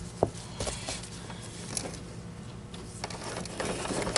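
A few light clicks and knocks of something being handled, the sharpest about a quarter-second in, over a faint steady low hum.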